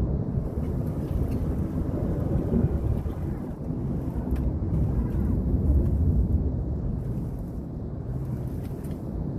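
A vehicle engine running, with wind rumbling on the microphone.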